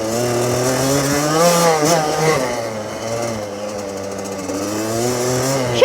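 Small dirt bike engine running hard in a low gear, its pitch climbing in the first second and a half, dipping briefly, then holding high and slowly rising again. The rider has forgotten to shift up, so the engine is revving out in gear until he shifts near the end.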